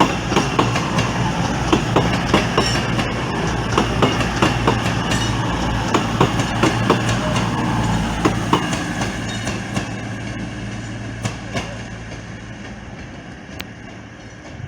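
A train moving through the station, its wheels clicking irregularly over rail joints and points above a steady low hum, fading away over the last few seconds.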